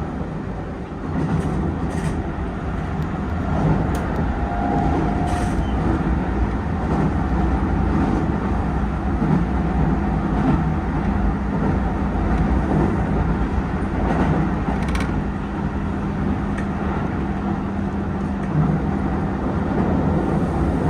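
Keisei 3000-series electric train running at speed, heard from inside the car: a steady rumble of wheels on rails with a faint steady motor hum and a few sharp clicks.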